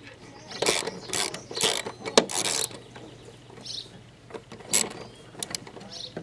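Hand ratchet wrench working a bolt on a lawn mower engine, clicking in short irregular bursts, the busiest run in the first few seconds.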